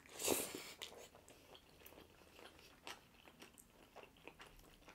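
Close-miked eating sounds: mouthfuls of noodles (sweet Filipino-style spaghetti and palabok) being taken in and chewed. There is a louder noisy mouth sound about a quarter second in, then soft wet clicks of chewing.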